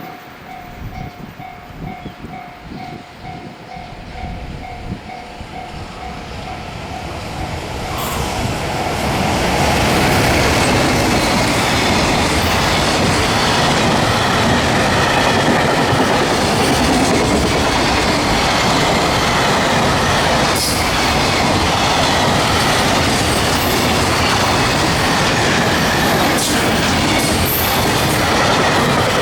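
An evenly pulsing electronic warning bell, like a level crossing's, rings faintly; about eight seconds in a freight train hauled by an EF210 electric locomotive arrives, and its wagons pass loudly and steadily, with wheels running on the rails and clacking over rail joints.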